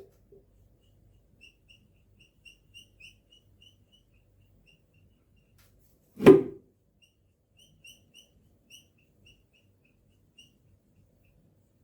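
Black marker squeaking in short, high chirps as it colours in the drawing, in irregular runs, with one loud knock about six seconds in.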